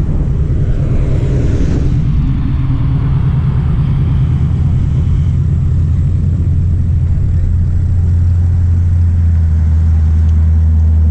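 Car engine running steadily under way, with a low rumble and road noise; the engine note grows louder about eight seconds in.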